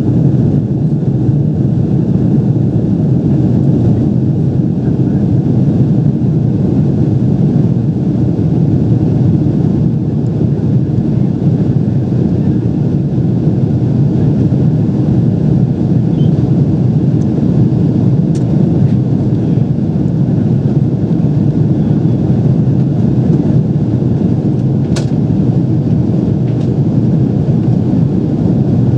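Steady low rumble inside the cabin of a Boeing 777 airliner: engine and airflow noise after takeoff. A single sharp click about three quarters of the way through.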